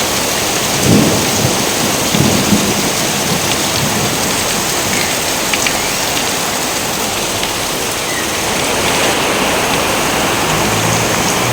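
Steady heavy rain with low rolls of thunder, the strongest about a second in and another soon after.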